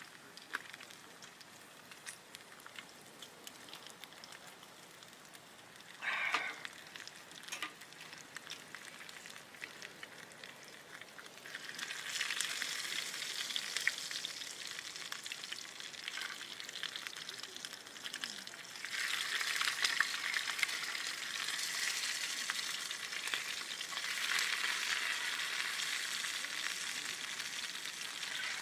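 Food sizzling in a hot pan over a camp fire. The sizzling swells about eleven seconds in and grows louder again near twenty seconds.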